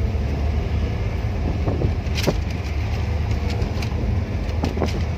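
Car driving, heard from inside the cabin: a steady low road and engine rumble, with a few light clicks.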